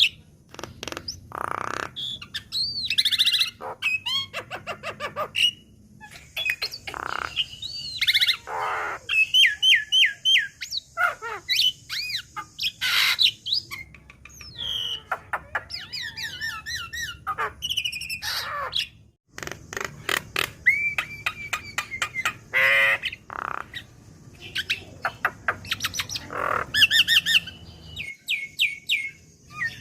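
Javan mynas calling in a busy, varied string: whistled rising and falling notes, quick rattling series of sharp clicks, and harsh squawks, broken by a brief pause about two-thirds of the way through.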